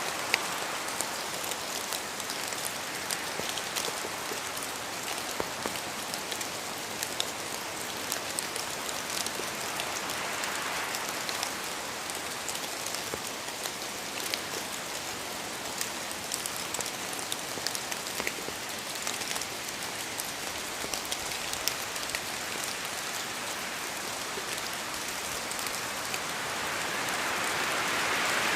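Steady rain falling, with many small drops ticking sharply through the even hiss. It swells louder near the end.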